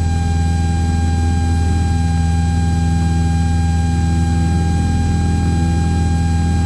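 Cessna 172's four-cylinder piston engine and propeller droning steadily at climb power, heard from inside the cockpit, with a thin steady whine above it.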